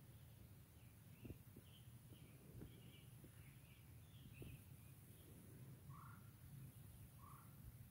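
Near silence over a low rumble, with faint bird chirps repeating through the first half and two lower bird calls near the end.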